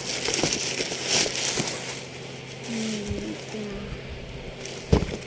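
Plastic or paper shoe packaging crinkling and rustling as it is torn open, busiest in the first two seconds. A brief hum-like tone comes about three seconds in, and a thump follows near the end.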